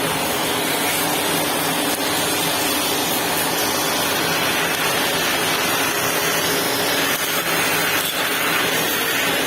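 Delfin DM3 water-filtration vacuum cleaner running steadily, a loud even rushing noise with a faint motor hum underneath.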